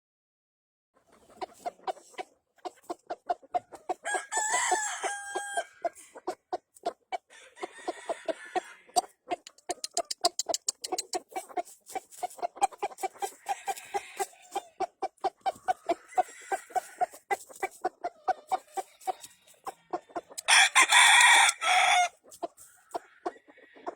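Gamefowl roosters crowing over steady, rapid clucking. One rooster crows about four seconds in, and a much louder crow of about a second and a half comes near the end.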